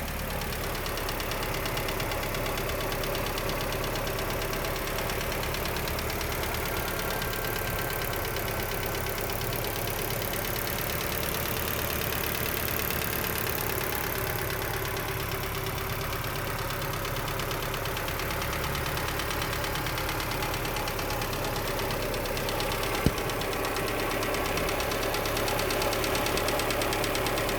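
Built Mazda Miata's four-cylinder engine running steadily, with the unidentified mystery noise the owner is trying to track down; a single sharp click sounds late on.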